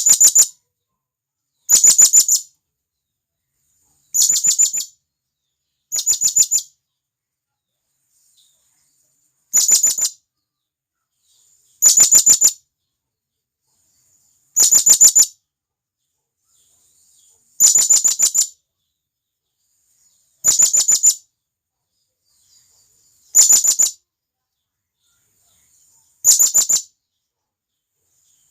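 Serindit (blue-crowned hanging parrot) giving its shrill calling call again and again: each call a rapid trill of sharp notes lasting under a second, repeated every two to three seconds. This is the call a serindit gives to summon others of its kind.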